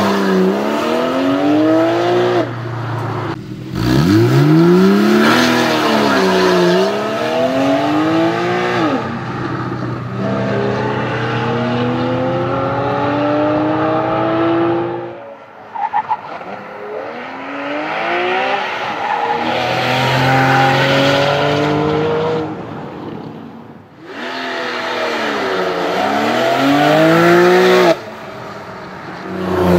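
Porsche 991 Carrera 4S flat-six engine through its Porsche Sports Exhaust, accelerating hard with the pitch climbing and then dropping again, over and over, as it revs up and shifts. The sound breaks off and restarts abruptly several times.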